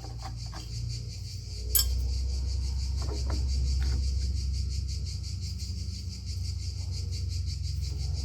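A few light metallic clinks of hand tools on car parts, the sharpest about two seconds in, over a steady low hum and a high, fast insect chirring.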